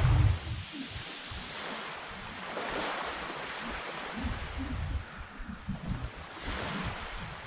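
Sea waves washing in, swelling about three seconds in and again near the end, with wind buffeting the microphone and a strong gust right at the start.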